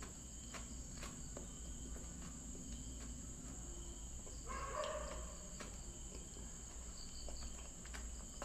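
Quiet eating sounds: a few faint clicks of a fork against a plate, with a short, slightly louder sound about halfway through. Underneath is a steady high-pitched whine and a low hum.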